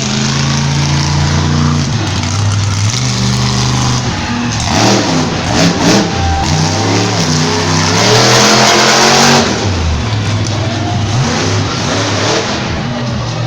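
Monster truck engine revving hard, its pitch rising and falling again and again, with two louder, noisier surges in the middle.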